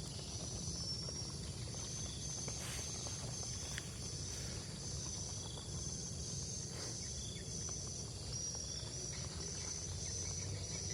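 Insects trilling in steady high-pitched runs, over a low outdoor background rumble, with a few faint clicks.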